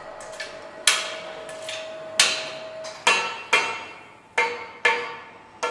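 Metal parts and tools knocking together at an engine assembly station: a series of sharp metallic clanks, each with a short ringing tail, about seven of them at uneven intervals. A faint steady tone runs under them and stops about three seconds in.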